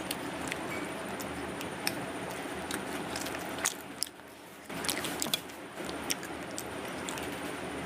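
A person chewing a mouthful of vada pav close to the microphone: scattered wet mouth clicks and smacks over a steady background hiss, which drops away briefly about four seconds in.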